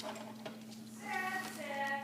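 A young child singing high, held notes, starting about a second in, over a faint steady hum.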